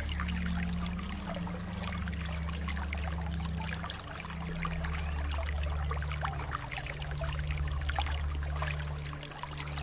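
Trickling, splashing water with many small drips, over a low held drone whose notes shift every couple of seconds.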